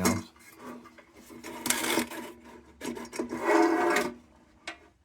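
Scraping and rubbing of a tin lantern's parts being handled during reassembly, with a few small clicks and a louder scrape about two seconds in.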